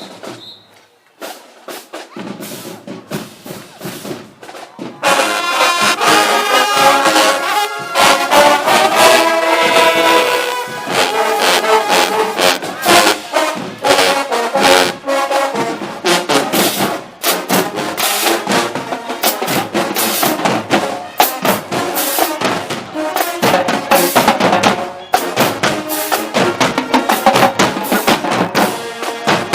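Marching band playing, brass and drums: drum strokes at first, then the brass comes in loud about five seconds in over a steady drum beat.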